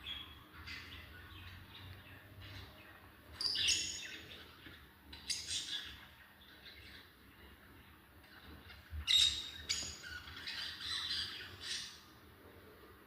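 Lovebirds squabbling, with short, harsh chirps and squawks in quick bursts. The calls come loudest in clusters about a third of the way in and again just past the middle.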